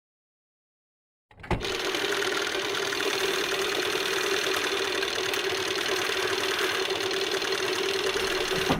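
Steady running of a machine with a constant mid-pitched hum over a hiss; it starts abruptly about a second in and cuts off suddenly near the end.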